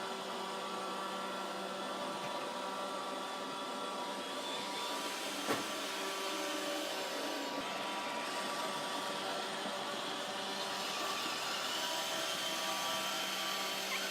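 Roomba robot vacuum running with a steady whir, with a single sharp click about five and a half seconds in.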